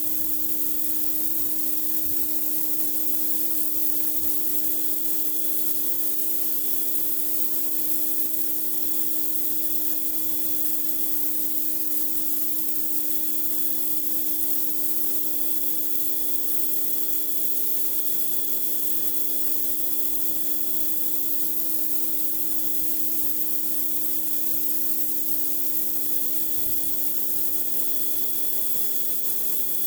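Pressure washer blasting a concrete driveway: a steady hiss of high-pressure water spray over the constant hum of the machine running, with no let-up.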